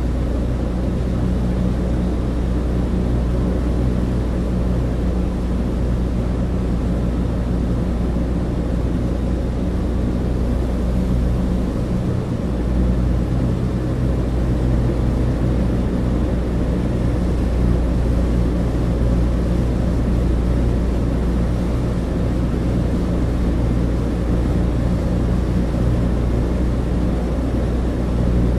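Steady cabin drone of a Douglas DC-3's twin radial piston engines and propellers, heard from inside the aircraft. It is a deep, even hum with no change in pitch.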